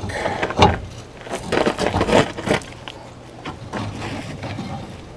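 Knocks and scraping of a rebar rod being worked into a hook, several sharp knocks close together in the first couple of seconds, then quieter handling.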